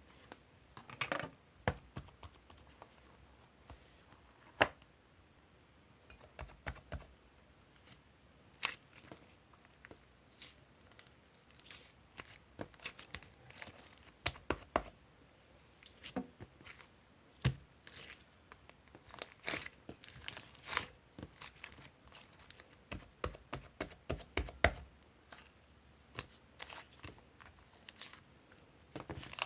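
Close-up handling of paper or plastic: irregular crinkling and tearing sounds mixed with small taps and clicks.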